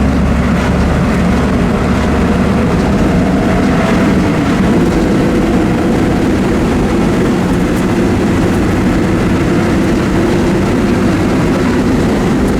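The Cummins turbo-diesel six of a 1989 Dodge D350 truck running under way, with the truck's rattles and road noise. The engine note steps up in pitch a little more than four seconds in.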